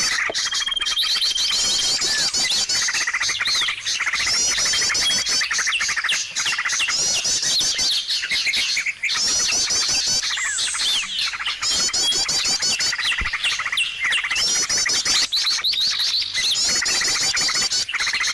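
Bird-lure recording of mixed small songbirds: a dense, unbroken chorus of fast chirps and twittering trills from several birds calling over one another, with a short steady whistled note near the start.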